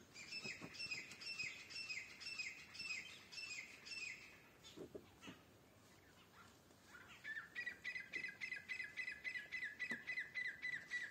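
A bird calling in two runs of repeated short notes: first about three slightly falling notes a second for some four seconds, then, after a pause of about three seconds, a quicker, slightly lower run that goes on to the end.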